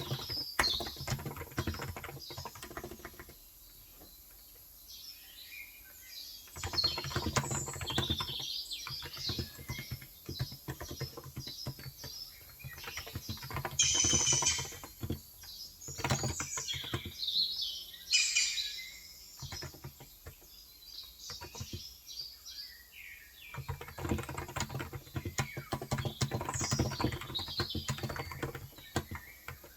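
Typing on a Cox Endeavour electrocapacitive (Topre-style) tenkeyless keyboard with 35 g switches, in bursts of rapid keystrokes with short pauses between. Small birds chirp and tweet in the background, with the loudest calls about halfway through and near the end.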